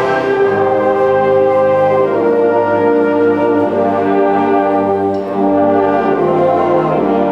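Concert band playing held, sustained chords, with the brass (horns, trombones, trumpets) to the fore.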